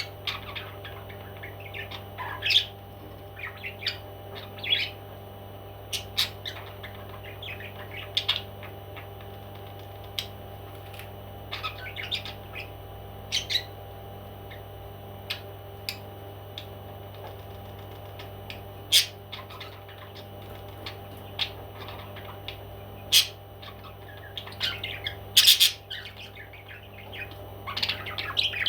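Pet parrots squawking and chirping in short, irregular calls, a few louder squawks near the end, over a steady low hum.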